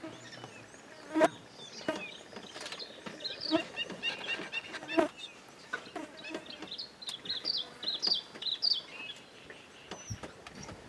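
Birds calling in runs of short, high chirping notes, with a few sharp knocks, the loudest just over a second in and about five seconds in.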